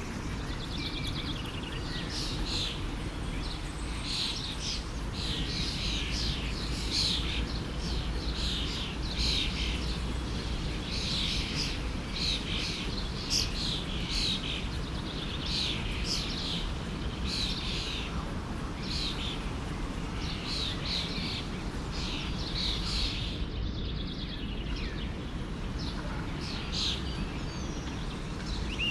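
Songbirds chirping in quick, repeated short calls over the steady rush of a forest stream.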